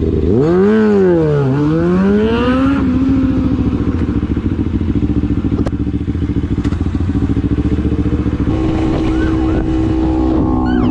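Motorcycle engine revving, its pitch swooping up, down and up again in the first few seconds, then running steadily with a pulsing exhaust note. The engine note steps up and holds higher near the end.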